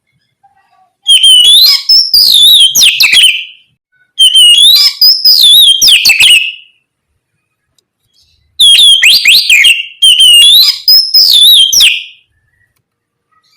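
Oriental magpie-robin (kacer) singing: four loud phrases of clear whistles sliding up and down, mixed with sharp rasping notes, separated by short silences.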